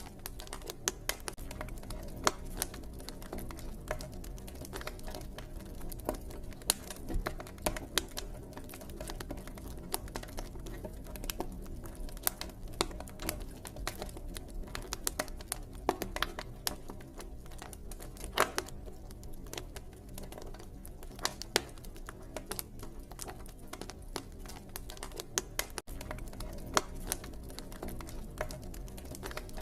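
Campfire crackling: a steady stream of irregular sharp pops and snaps from burning wood over a low, even rumble.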